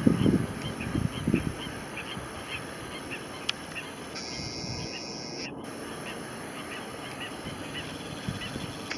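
Faint, even chirping of insects, about two chirps a second, with a few low rumbling bumps in the first second and a half.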